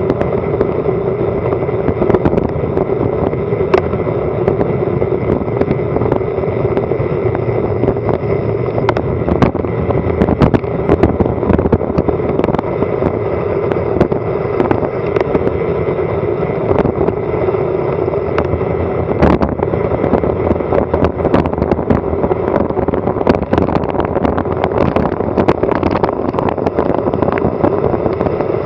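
Wind and road noise on a bicycle-mounted action camera's microphone during a fast downhill descent: a steady rush with a hum through it, broken by frequent clicks and knocks as the bike and mount rattle over the road surface.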